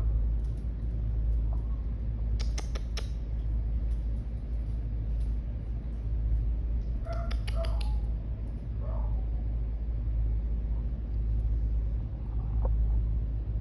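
Dogs playing, with a few short whines or yips near the middle, scattered scuffs and clicks, and a steady low rumble underneath.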